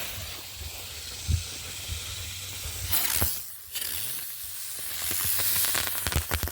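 B-3 Bomber spinner firework hissing as it burns, the hiss surging twice, with scattered sharp pops that thicken into a quick run of cracks near the end.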